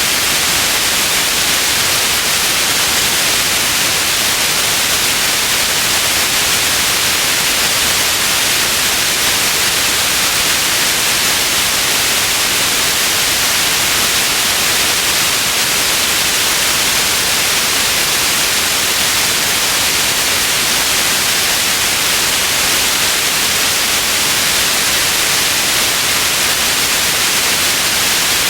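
Steady white noise: an even, unbroken hiss, strongest in the upper range, with no change in level.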